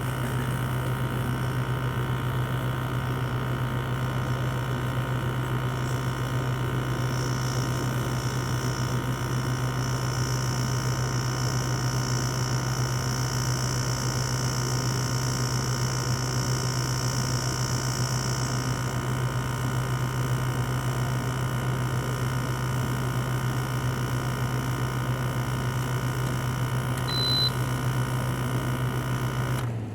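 LG 6000 BTU window air conditioner running from outside, its GMCC single-phase rotary compressor and fan motor making a steady hum with several steady tones. A single short high beep sounds near the end, then the unit cuts off suddenly as it is switched off.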